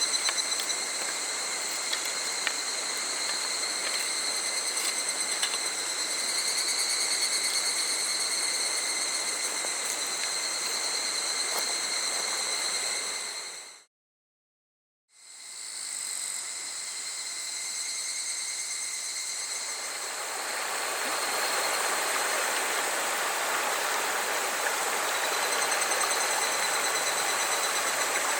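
Summer forest insect chorus, cicadas shrilling in several steady high tones over a hiss. Midway it fades out for about a second and comes back, and about two-thirds of the way through the rushing of a small stream joins in.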